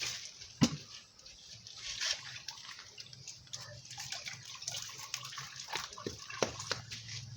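Water sloshing, with scattered knocks and clicks. A single sharp knock about half a second in is the loudest sound.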